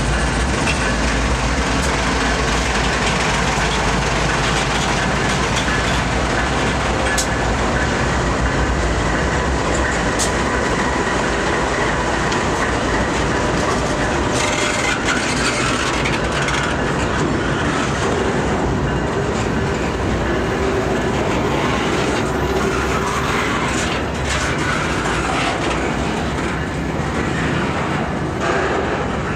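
BNSF freight train passing close by: the deep engine sound of its diesel locomotives eases off over the first several seconds, then double-stack intermodal well cars roll past with a steady sound of steel wheels on the rails.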